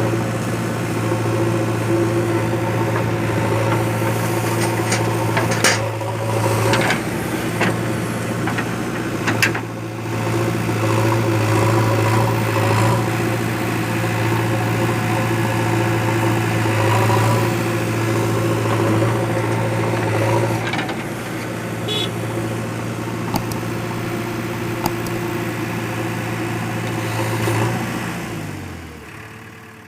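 Diesel engine of a JCB 3DX backhoe loader running steadily, with a few sharp metallic clanks. Near the end the engine slows and dies away.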